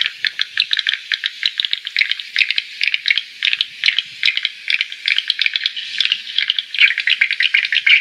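Swiftlets calling: a dense chatter of rapid, high, dry chirps and clicks, growing louder again near the end.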